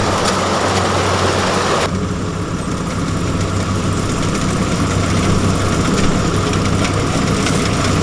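Diesel engine of heavy farm machinery (a rice combine harvester or tractor) running steadily with a low hum; the sound changes abruptly about two seconds in, as a noisier hiss drops away.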